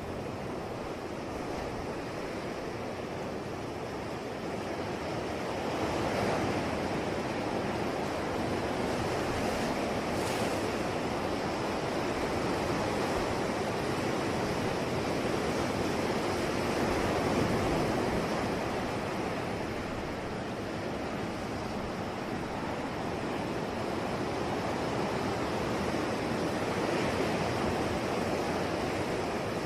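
Sea waves washing onto a shore in a continuous rush, swelling and easing slowly every several seconds.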